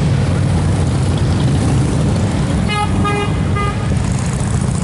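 Steady low rumble of many motorcycle engines, with three short horn toots close together about halfway through.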